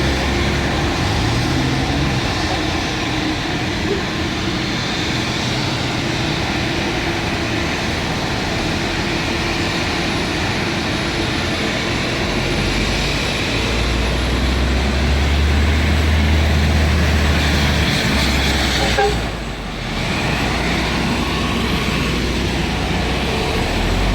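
Helicopter running on the ground at idle, a steady dense engine and rotor noise.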